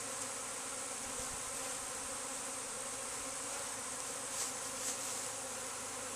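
A honeybee swarm buzzing steadily, many bees in flight at close range.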